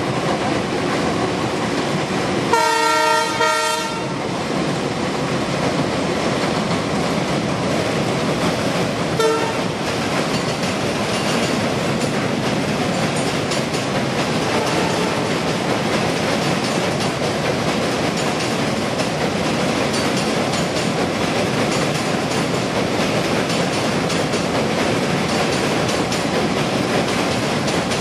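Passenger train crossing a steel truss bridge: a continuous rumble and clatter of coaches rolling over the girders. The train horn sounds one blast of about a second and a half about three seconds in, and a brief short toot about nine seconds in.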